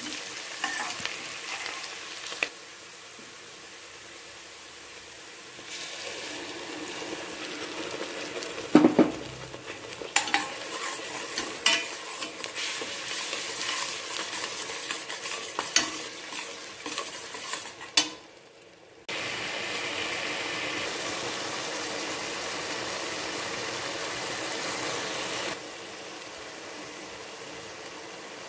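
A steel ladle stirring and scraping onions and spices as they fry in oil in a pressure cooker, with sizzling and sharp clicks of the ladle against the metal pot. Later a steadier, even sizzle as the tomato masala cooks.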